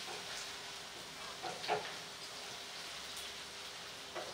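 Ginger paste frying in oil in a steel kadai, a steady sizzle, with a wooden spatula scraping and knocking against the pan a few times, about a second and a half in and again near the end.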